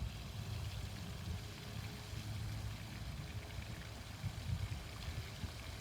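Outdoor fountain water splashing steadily, over a low rumble.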